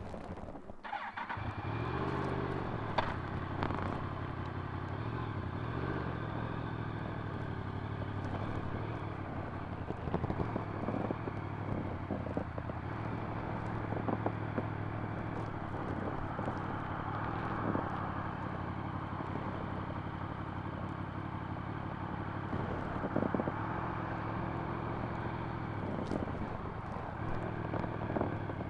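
Yamaha MT-10 SP's crossplane inline-four running through an Akrapovic exhaust at low revs while ridden. The engine note swings up and down a couple of times in the first few seconds, then settles into a steady, even drone.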